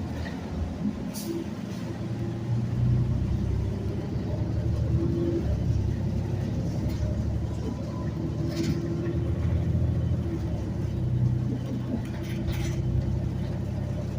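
City transit bus under way, heard from on board: a steady low engine drone and road rumble that swells and eases with the throttle, with a few brief high clicks.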